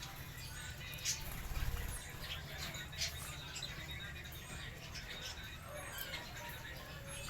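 African lovebirds chirping: short, high squeaky chirps scattered irregularly through, over a low steady hum.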